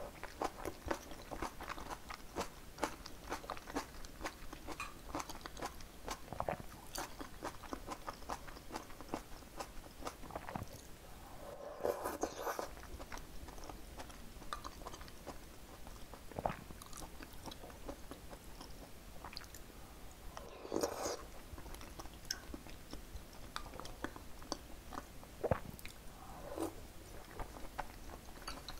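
Close-miked eating sounds: rapid, crisp crunching as fresh napa cabbage kimchi (geotjeori) is chewed, thinning later into softer wet chewing of spoonfuls of soup. Two louder wet bursts come about halfway and about two-thirds of the way through.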